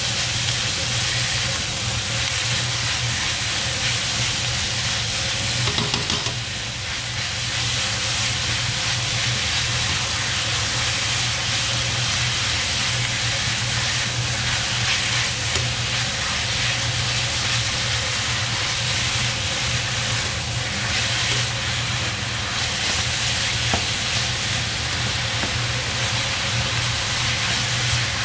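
Minced chicken and chopped onion sizzling steadily in a stainless steel wok while being stirred with a slotted spatula.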